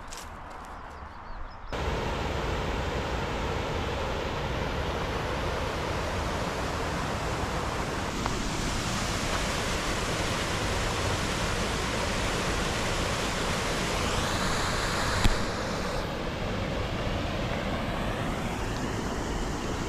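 Steady rush of a waterfall's falling water, starting abruptly about two seconds in after a quieter stretch. One sharp knock near the three-quarter mark.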